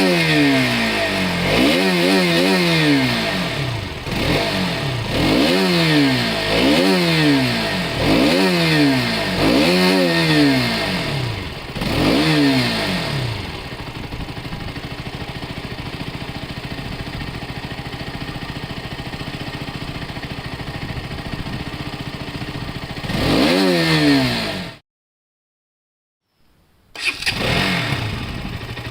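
Motorcycle engine revved up and down again and again, about one blip every second and a half, then settling to a steady idle. After one more rev the sound cuts off abruptly; after about two seconds of silence another motorcycle engine starts and revs.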